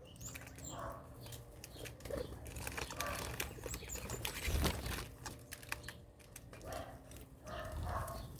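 Birds moving about, with wing flutters, short high chirps and scattered clicks and knocks.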